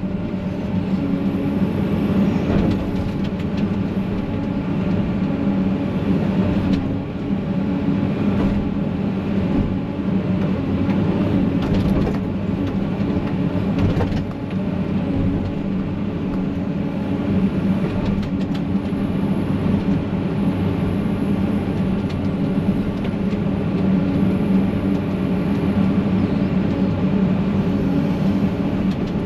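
Excavator's diesel engine running steadily as the machine works, heard from inside the cab, with a few sharp knocks along the way.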